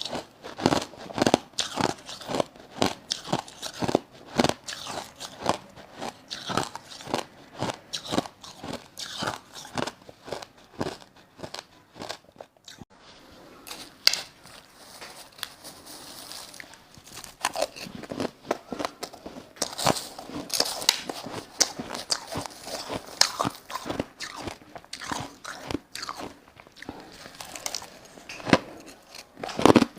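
A person biting and chewing crushed ice: a fast run of crisp crunches that thins out briefly near the middle and then picks up again.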